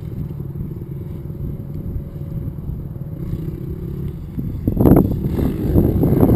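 Dirt bike engine running steadily at low revs, then getting suddenly louder and rougher about three-quarters of the way in.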